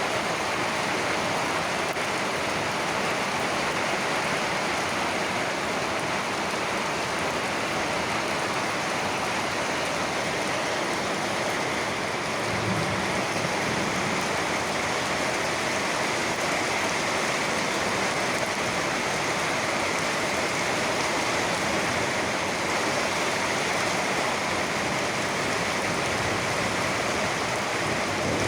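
Steady rain falling: an even, unbroken hiss of rain with no thunder.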